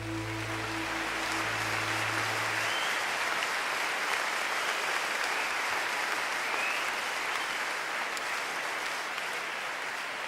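Audience applauding steadily at the end of a live song, over the last sustained chords, which die away in the first two to three seconds.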